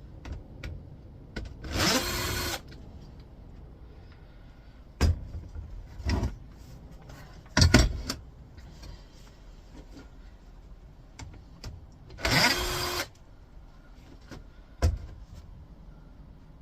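Cordless power screwdriver driving out two screws, two short whirring runs with a pitch that rises as the motor spins up, about ten seconds apart. Between them come a few sharp knocks and clunks of the monitor's metal and plastic parts being handled.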